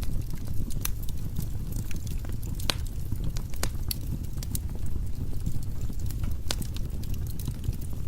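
Firewood burning in a fireplace: a steady low rumble of flames with irregular crackles and sharp pops of the logs.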